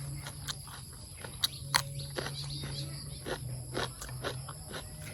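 Rural outdoor ambience: a steady high-pitched insect chorus over a steady low hum, with scattered sharp clicks and ticks throughout.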